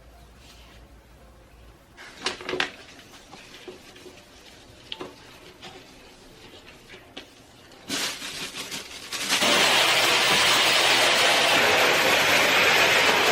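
Scattered light clicks and knocks of objects being handled. About nine seconds in, a loud, steady rushing noise starts abruptly and keeps going.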